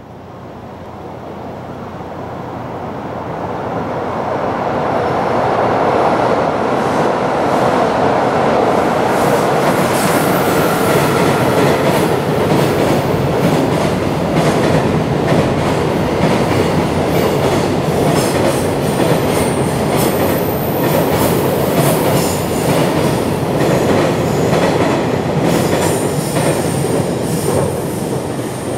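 Long container freight train passing on an elevated track, its wheel and rail noise growing over the first few seconds and then holding steady and loud. A rapid clatter of wheels over rail joints runs through it, and a high wheel squeal comes and goes in the second half.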